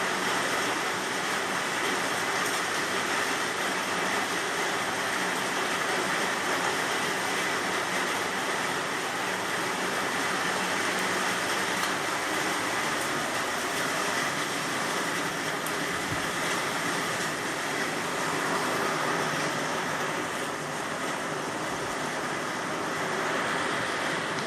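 Rain falling steadily, an even hiss with no change in strength.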